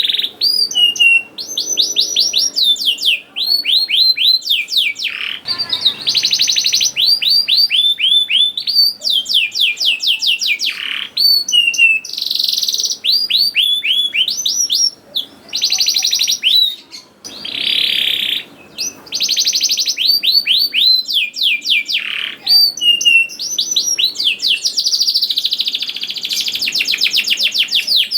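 Domestic canary singing continuously in long, fast trills of repeated sweeping notes, mixed with short buzzy rolls and brief pauses.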